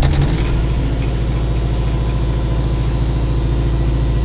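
Kubota tractor's diesel engine idling steadily, just started and warming up in the cold.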